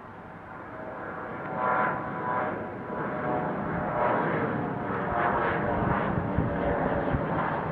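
A departing jet airliner's engines, growing louder over the first three seconds and then holding. A whine of several steady tones sits over the noise of the engines.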